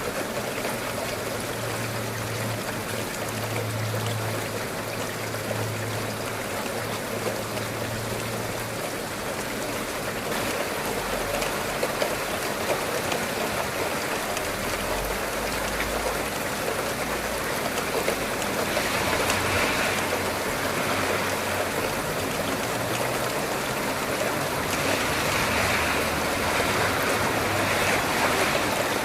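Steady rain falling: a dense, even hiss with faint scattered drop ticks, growing a little louder in the last third.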